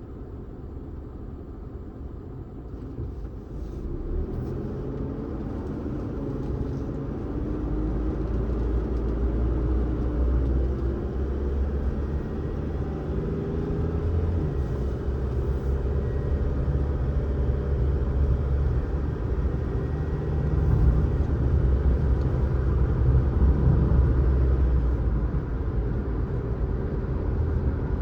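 Car on the road: a steady low rumble of engine and tyres, growing louder from about four seconds in.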